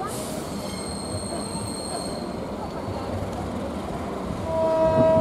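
A train running past on the rails with a high metallic wheel squeal for the first couple of seconds. A loud, steady pitched tone, like a horn, starts near the end.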